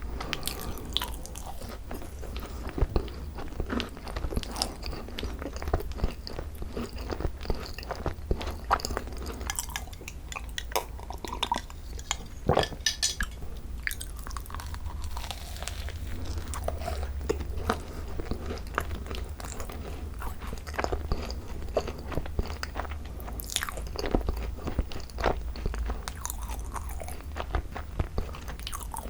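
Chewing and biting of a thick cream-filled Korean macaron (ttungcaron), with irregular crisp crunches of the shell throughout. A steady low hum runs underneath.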